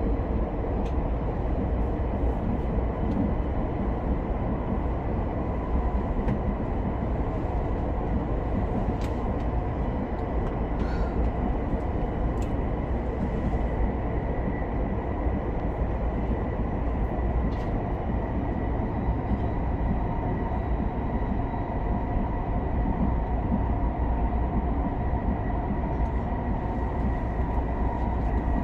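Interior running noise of an SR 120000-series (SRT) high-speed train cruising: a steady low rumble with a faint constant whine.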